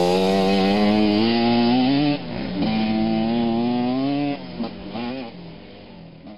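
Motocross motorcycle engine running hard, its pitch climbing steadily, dropping abruptly about two seconds in and again around four seconds, then fading out near the end.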